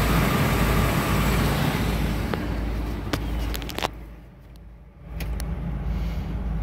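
Ford 460 big-block V8 idling steadily in an open engine bay, a smooth, even low hum. About halfway through, the broad engine-bay noise drops away for a moment and a few sharp clicks are heard.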